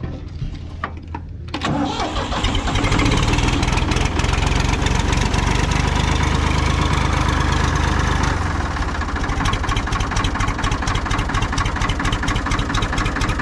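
Combine engine cranking and catching about a second and a half in, running fast for several seconds, then dropping back to a steady idle near the middle.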